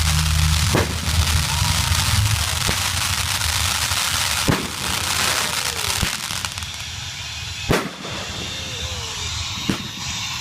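Fireworks crackling steadily, with about five sharp bangs spaced a second or more apart.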